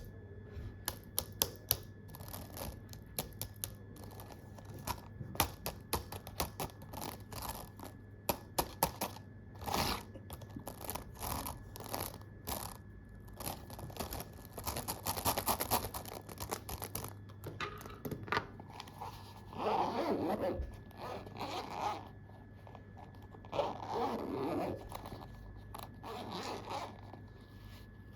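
Computer keyboard keys tapped in quick, irregular clicks, followed in the second half by several longer scraping sounds.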